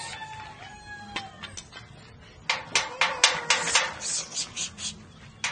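Chicken calling: a drawn-out falling call at the start, then a fast run of clucks from about two and a half seconds in.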